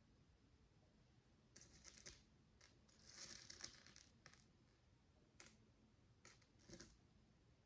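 Tiny plastic micro building bricks being handled: a quick run of light clicks, then a short rustling rattle like fingers sorting through loose pieces, then a few single soft clicks.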